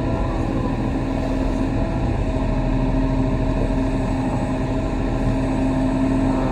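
Kobelco SK35 mini excavator's diesel engine running steadily at working speed.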